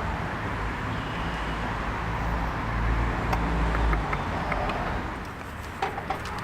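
Low steady rumble of road traffic that swells in the middle and eases off, with a few faint light clicks.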